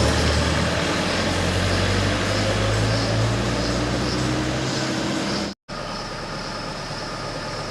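Heavy road vehicle's engine running close by with a strong low drone that fades away about four and a half seconds in. After a brief dropout, steadier and quieter traffic noise follows.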